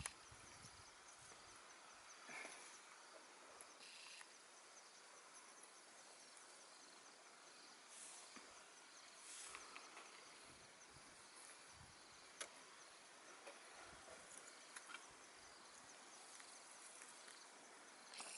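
Faint outdoor ambience: a high, evenly repeating insect chirping over a soft hiss, with a few faint rustles and knocks.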